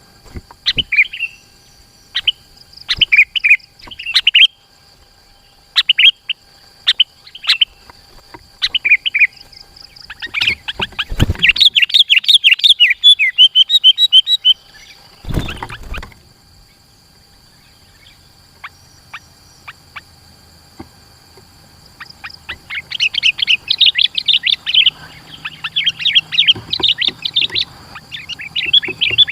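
Sooty-headed bulbul (kutilang) singing vigorously: short, spaced chirps at first, then two long stretches of dense, rapid chattering, the second building up near the end. Two brief low thumps fall in the middle, and a faint steady high whine runs underneath.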